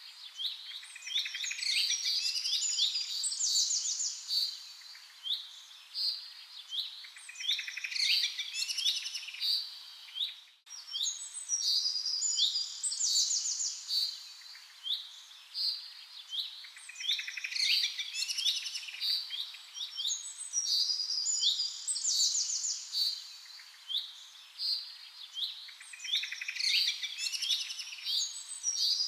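Several small songbirds chirping and calling over one another, quick high chirps and trills, with a brief break about ten seconds in.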